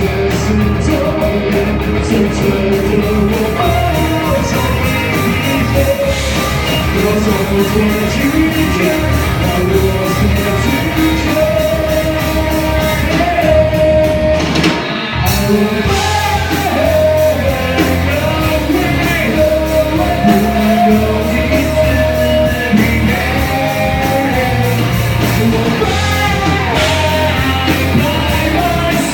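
Live rock band playing with amplified guitar, bass and drums, and a singer singing over it.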